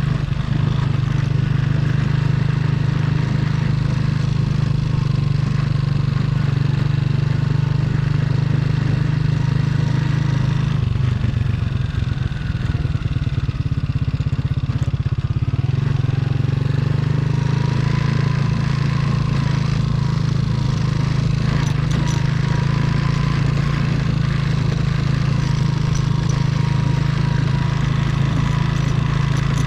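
Trail motorcycle engine running at a steady speed. About eleven seconds in, the engine note drops and turns uneven for a few seconds, then it picks back up to its steady note.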